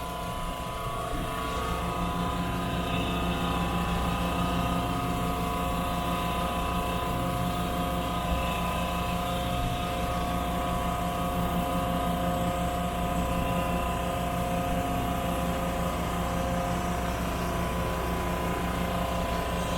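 Rainman portable watermaker's power unit and high-pressure pump running steadily, a constant machine hum with several fixed tones, at start-up while its pressure is being slowly brought up before it makes fresh water.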